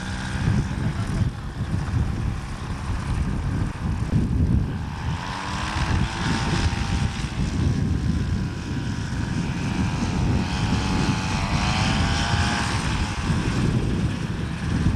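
Model airplane engine in flight, a propeller buzz whose pitch rises and falls in slow sweeps several times as the plane passes and manoeuvres, over a steady low rumble.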